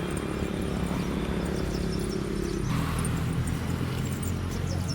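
An engine running steadily, its pitch dropping a little more than halfway through.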